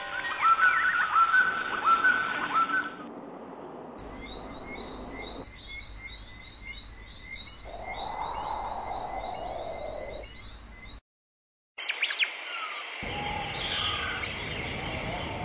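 Stock recordings of assorted bird calls and songs spliced together, switching abruptly every few seconds, with the loudest calls in the first three seconds and a brief dropout to silence about eleven seconds in.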